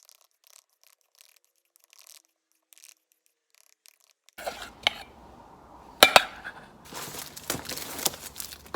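Near silence for about four seconds, then kitchen handling sounds: a utensil clinking against a mixing bowl, with two sharp clinks about six seconds in, followed by scraping and rustling as the frosting is worked.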